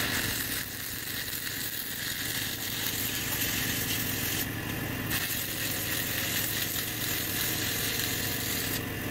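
Stick-welding arc from a 6011 electrode crackling and sizzling steadily as the rod burns onto unground, mill-scaled pipe and plate. The hiss drops off briefly about halfway through.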